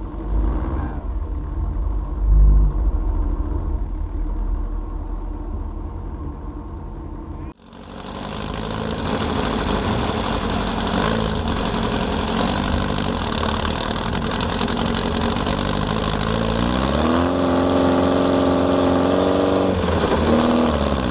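Air-cooled Volkswagen flat-four engine: a low running rumble, then after a sudden cut a louder drive with a rushing noise over the engine. Near the end the engine revs up, rising in pitch, and drops back.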